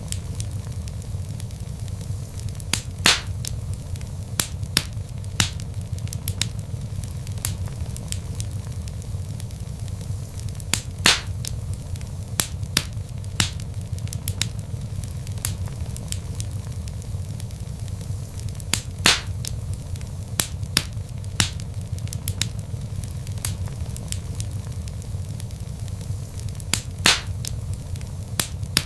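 Wood fire burning in a fireplace: frequent sharp crackles and pops over a steady low rumble of the flames, with a louder pop about every eight seconds.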